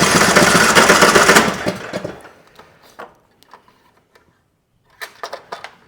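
Troy-Bilt Pony riding mower's Briggs & Stratton engine cranking on its electric starter without firing, stopping about a second and a half in. It turns over but won't start, which rules out a safety switch as the cause.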